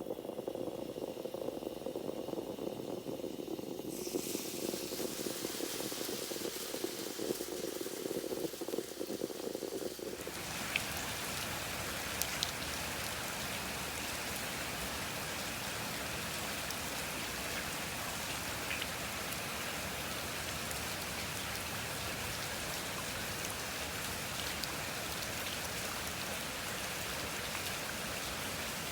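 Steady rain falling, an even hiss, starting suddenly about ten seconds in. Before that comes a different steady noise, lower and narrower in pitch.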